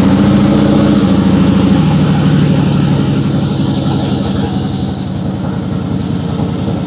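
Motorcycle engine running just after starting, its fast idle dropping about two seconds in and settling into a steady idle.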